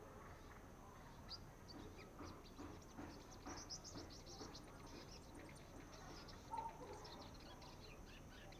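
Young sunbird twittering softly in many quick, thin, high chirps: a juvenile practising its song. One short, lower, louder note sounds about two-thirds through.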